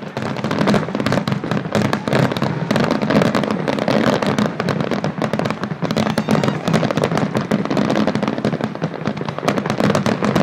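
Aerial fireworks display: a dense, continuous run of bangs and crackles from shells bursting overhead.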